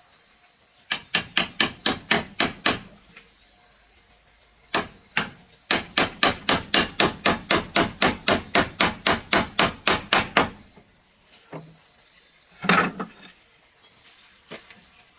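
Hammer striking wood in quick, even blows of about five a second: a short run, a pause, then a longer run of some twenty blows, followed by a few scattered knocks near the end.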